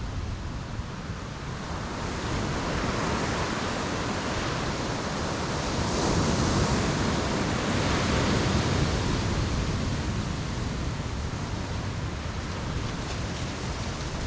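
Ocean surf breaking on a beach: the wash builds from about two seconds in, is loudest around the middle as a wave breaks, then eases back.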